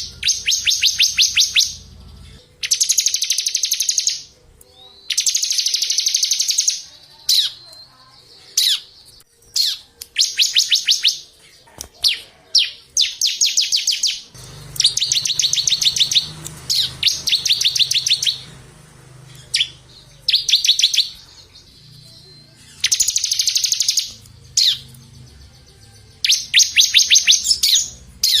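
A small songbird singing rapid, high trills over and over, each trill a second or two of fast repeated notes, with short single chirps between them. About ten trills come in turn.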